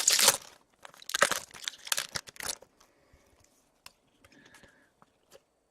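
Foil trading-card pack wrapper crinkling and tearing in a few short bursts over the first couple of seconds, then only faint handling ticks.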